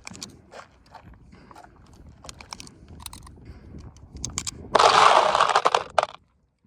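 A loud, rapid string of gunshots packed close together, lasting about a second and a half near the end and then cut off abruptly. Before it there are only scattered light clicks and knocks.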